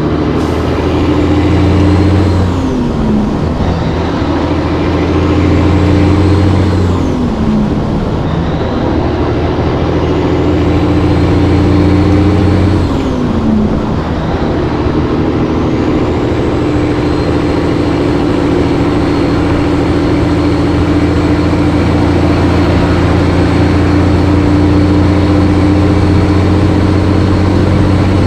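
Cabover semi truck's Caterpillar 3406B diesel engine pulling a heavy load through the gears: the engine note holds, then drops sharply at each of three gear changes in the first 14 seconds and once more near the end, with a turbo whistle rising and falling over each pull. Between about 14 and 27 seconds it runs steadily at one speed.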